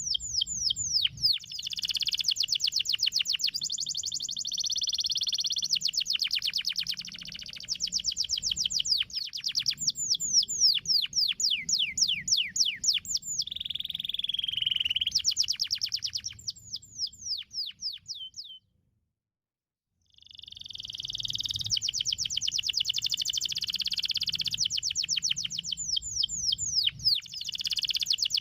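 Domestic canary singing a long, fast song of rapid trills and rolls, with runs of quick downward-sweeping notes. The song cuts to complete silence for about a second and a half past the middle, then resumes.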